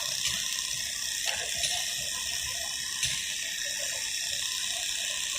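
Hand-pumped tubewell being worked: water gushing out steadily, with a few sharp mechanical clicks from the pump handle and plunger.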